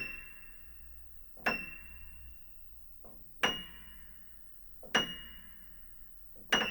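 High treble note of an Aldrich spinet piano, around F7, struck about five times at roughly one-and-a-half-second intervals, each a thin ping that dies away within about a second. The strings are not resonating as they should.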